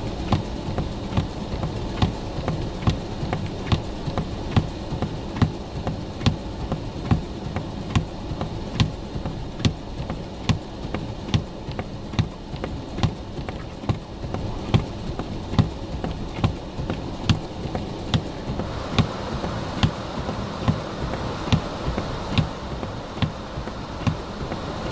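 Inside a car's cabin while driving slowly in snow: a steady engine and road rumble with a regular tick or knock a little more than once a second.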